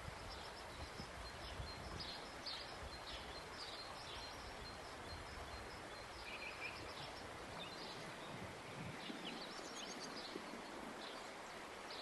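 Quiet outdoor ambience: a steady hiss with small birds chirping on and off throughout, and a low rumble that fades out about nine seconds in.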